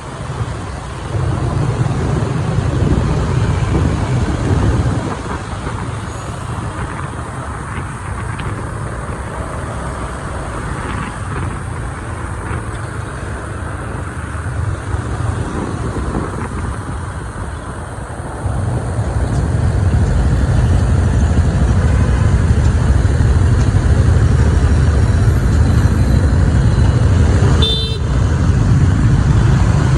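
City traffic heard from a moving motorbike: a steady low rumble with traffic noise, growing louder a little past halfway. A short horn beep sounds near the end.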